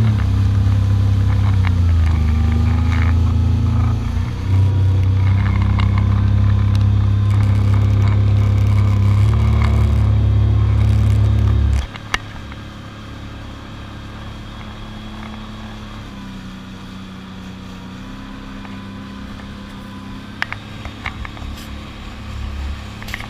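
Jet ski engine running at speed with a steady drone, dipping in pitch briefly twice. About twelve seconds in it is throttled back sharply to a much quieter low running sound, with a few clicks near the end.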